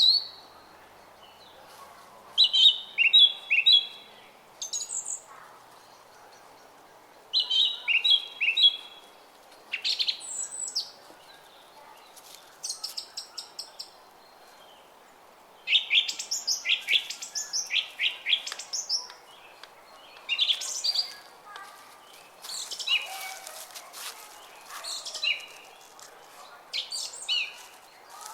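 Songbirds singing in short bursts of high chirps and quick trills, repeated every few seconds, over the faint steady rush of a brook.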